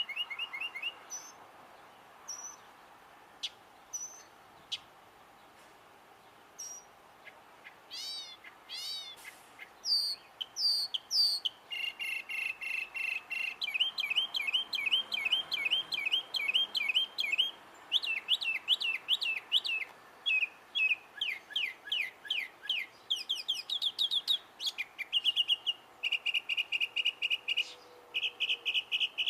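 A bird singing a long, varied song, repeating each short phrase several times before switching to a new one. It starts with sparse single notes, then moves through fast runs of chirps, downward slurs and trills.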